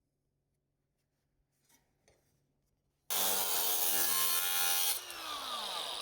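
Handheld power grinder working sheet steel for about two seconds, then released and spinning down with a falling whine. It is trimming the metal to close a gap in a bent corner.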